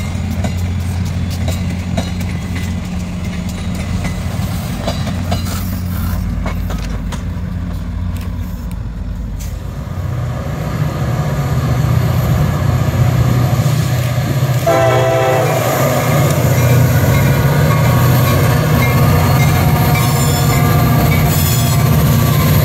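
A passenger train rolling away, then CSX diesel freight locomotives running past; the deeper engine rumble of the locomotives comes in about ten seconds in. A short horn blast of about a second sounds near the middle.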